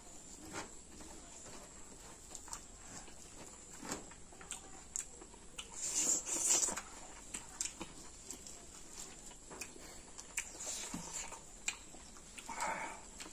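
Close-up mukbang eating sounds of people eating chicken curry and rice by hand: wet chewing and lip-smacking with many small clicks, loudest about six seconds in.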